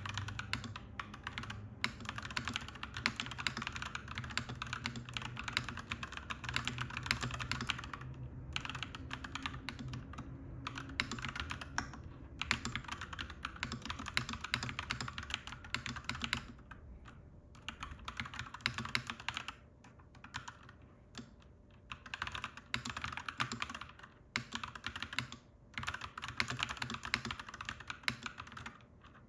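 Clacky mechanical keyboard being typed on in fast, continuous runs of key clicks, broken by several brief pauses.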